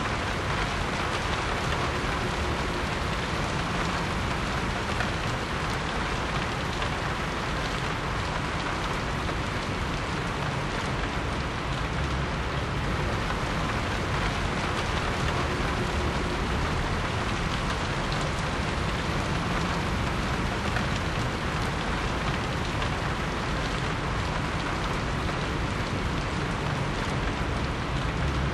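Heavy rain pouring steadily, a dense even hiss with no breaks or single events.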